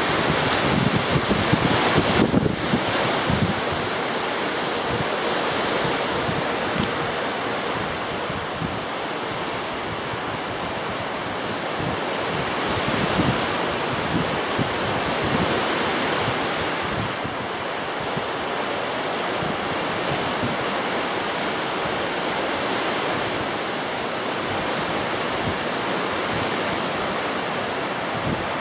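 Strong gusting wind buffeting the microphone, a steady rushing noise that is loudest in a gust over the first few seconds, with a faint steady high whine underneath.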